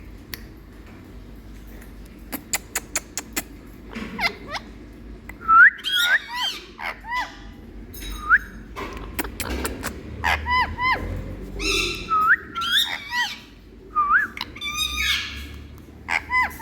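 Indian ringneck parakeet calling: a quick run of dry clicks, then repeated short whistled notes that swoop up or down, mixed with chirps and squawky calls.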